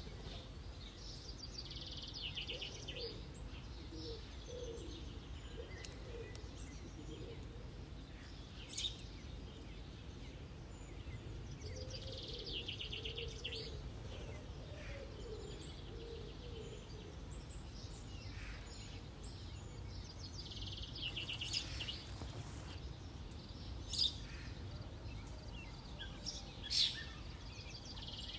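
Wild birds singing: a short, rapid trilled song that recurs every several seconds, with lower wavering calls between, over a steady low rumble. A few sharp clicks stand out, the loudest about three-quarters of the way through and near the end.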